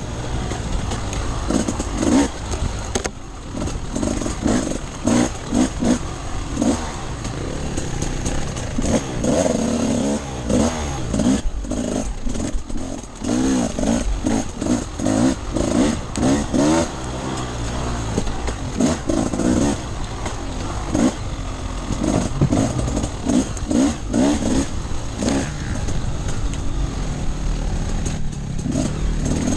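Off-road enduro motorcycle engine being ridden, revving up and falling back again and again as the throttle is opened and closed.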